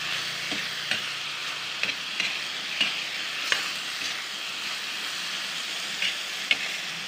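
Sliced bitter gourd, tomato and onion sizzling in hot oil in a wok while a spatula stirs them, with short scraping knocks of the spatula against the pan every second or so.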